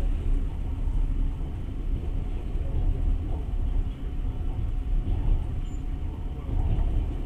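Passenger train running at speed, a steady low rumble of wheels and carriage heard from inside the car.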